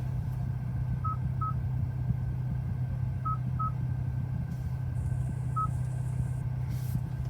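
Short, single-pitch electronic beeps from the Hyundai i20N's infotainment touchscreen as settings are tapped: two about a second in, two more past three seconds and one near six seconds. Under them is the steady low hum of the idling 1.6-litre turbo engine.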